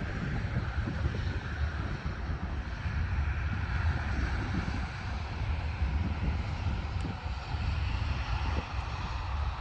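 Jet airliner on its landing approach, its engines heard as a steady rumble.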